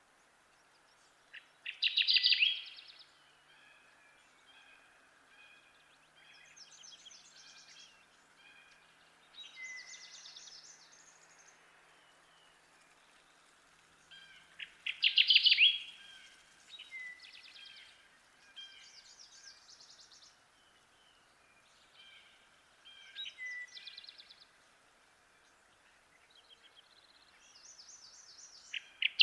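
Kirtland's warbler singing its short, loud song three times, about every thirteen to fourteen seconds, with fainter, higher bird songs in between over a steady background hiss.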